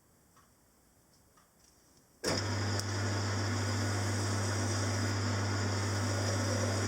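Small metalworking lathe switched on about two seconds in, its motor then running steadily with a strong hum.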